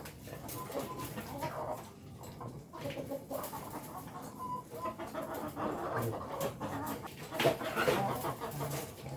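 Village chickens clucking, a flock making short, irregular calls that overlap, with scattered sharp taps among them.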